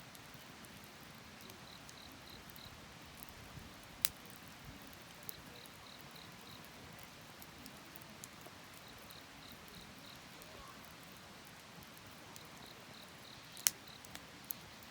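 Crickets chirping in short pulsed groups of four or five, repeating every couple of seconds, over the low hiss of a bonfire. Two sharp pops from the burning wood stand out, one about four seconds in and a louder one near the end.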